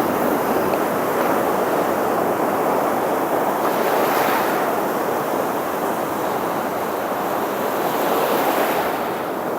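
Atlantic surf breaking and washing up the beach in a steady rush, swelling a little about four seconds in and again near the end, with some wind on the microphone.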